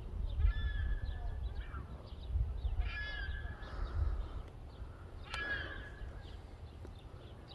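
Bird calls outdoors: three louder harsh calls, about half a second in, near three seconds and just past five seconds, with smaller chirps between, over a steady low rumble.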